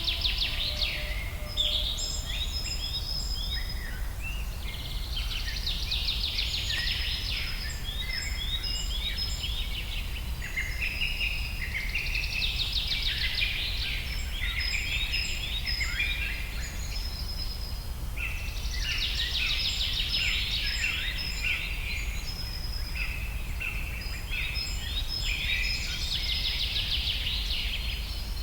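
Several forest birds singing, with bursts of quick trilled and chirped phrases coming back about every six to seven seconds, over a steady low rumble.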